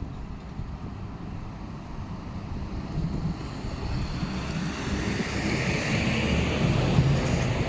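Tram approaching on its rails, a rumbling noise growing steadily louder, with a higher hiss swelling near the end.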